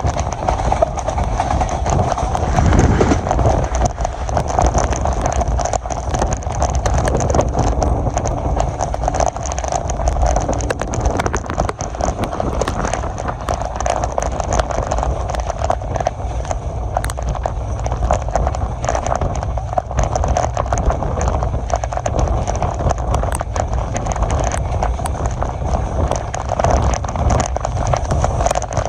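Passenger train running along the track: steady rushing noise with a rhythmic clatter of wheels over the rail joints.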